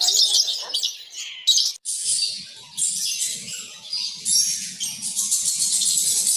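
Lovebirds chattering: a dense, continuous run of high-pitched chirps, with a brief break about two seconds in.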